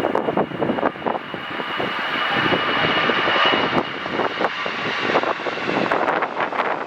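Airliner engines running as a plane passes, a steady high whine over a rushing roar that swells to its loudest about three seconds in, with wind buffeting the microphone throughout.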